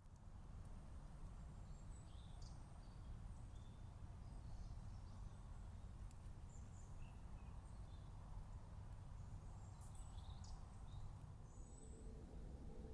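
Faint outdoor ambience: a steady low rumble, with scattered short, high bird chirps now and then.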